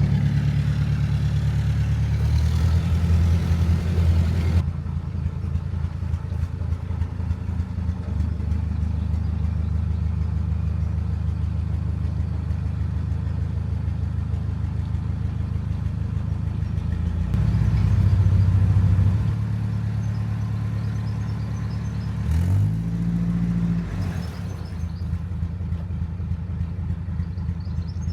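Narrowboat engine running steadily at low revs. The throttle is opened for a couple of seconds about two-thirds of the way in, and a little later the pitch briefly rises and falls again.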